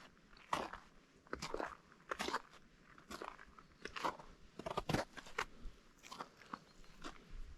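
Footsteps crunching on partially melted spring snow, one crunch a little under every second at a steady walking pace.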